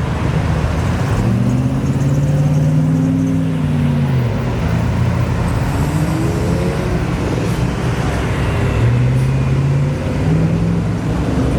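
Car engine revving up and dropping back several times: one long rise and fall about a second in, then shorter revs later on, over a steady engine rumble.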